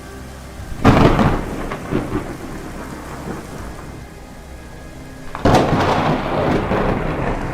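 Thunderstorm: two loud thunderclaps, about a second in and again about five and a half seconds in, each rumbling away over a couple of seconds, with steady rain underneath.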